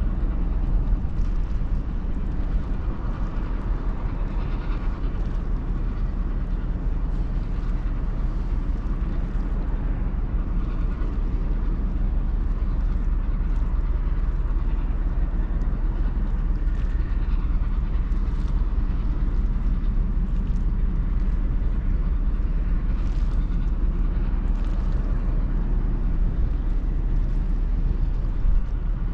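Steady low rumble of the ferry BLUE GRACE, a Ro-Ro passenger ship, under way, with a few faint ticks above it.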